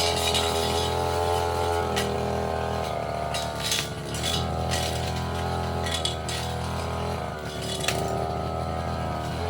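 Brush cutter engine running, its speed dropping and picking up again several times as it works, with scattered sharp clinks from the metal blade striking stems and debris.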